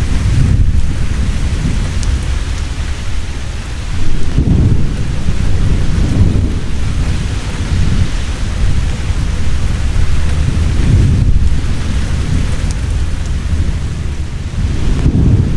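Heavy rain falling steadily, with thunder rumbling low several times, the strongest roll about four seconds in.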